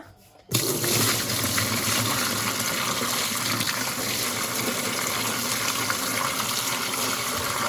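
Automatic washing machine filling with water: water gushing into the drum through the inlet, starting abruptly about half a second in and running on steadily.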